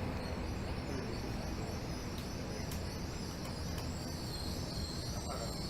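Interior of a Tokyo Metro 13000 series subway car standing at a station after braking to a stop: a steady hum and hiss from the car's onboard equipment, with no running or wheel noise.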